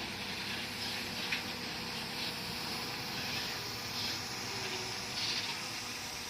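Bulldozer's diesel engine running steadily under a hissing noise, with a few short metallic knocks and rattles.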